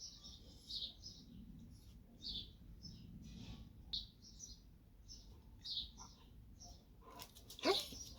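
Small birds chirping repeatedly with short, high tweets, fairly faint. Near the end there is a brief, louder pitched sound.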